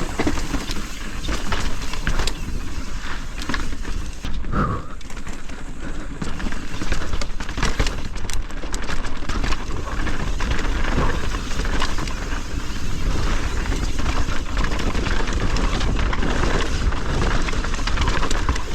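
Mountain bike descending a dirt trail: a steady rushing noise of tyres on dirt and air, broken by frequent short clicks and rattles from the bike over rough ground.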